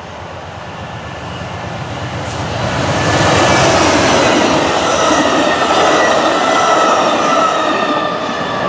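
Amtrak passenger train passing, its rumble building over the first three seconds and staying loud, with a thin steady high squeal from the wheels.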